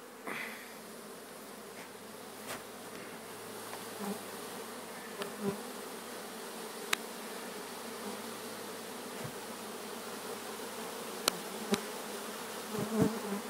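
Mass of honeybees buzzing steadily, a colony being transferred from a wall cavity into a hive box. A few sharp clicks break in about 7 seconds in and twice near 11–12 seconds.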